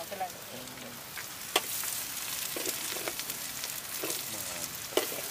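Food sizzling steadily in hot oil, with a couple of sharp clicks.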